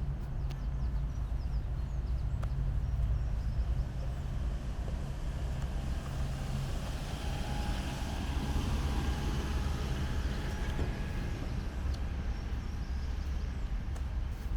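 A vehicle passing: a broad noise swells from about six seconds in, peaks, and fades away a few seconds later, over a steady low rumble of outdoor city background.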